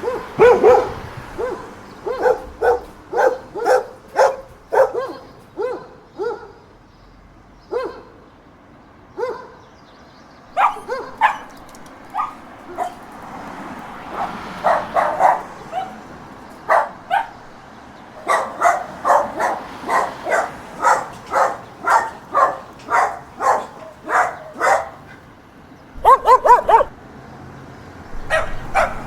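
Dogs barking in runs of short, sharp barks with brief pauses between the runs, and a louder burst of barks near the end.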